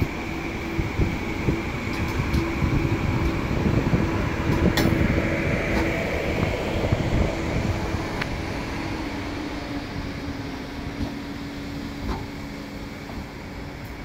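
Frecciarossa 1000 (ETR 1000) high-speed electric train rolling slowly past: a steady rumble and hum that sinks a little in pitch, with a few sharp clicks from the wheels. The sound fades after the last car goes by, about halfway through.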